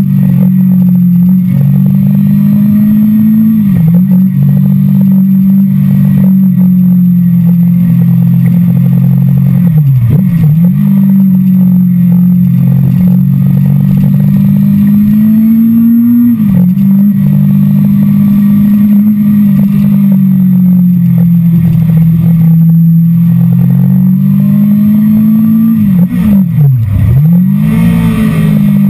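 Sport motorcycle engine running hard at high revs, heard from the bike itself. Its note dips sharply and climbs back about five times, as with throttle roll-offs and gear changes, twice in quick succession near the end.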